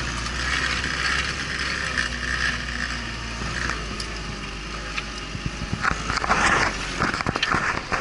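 Off-road vehicle driving: steady engine drone with rattling from the vehicle. About six seconds in the drone breaks up and a run of sharp knocks and clatters follows, as over rough ground.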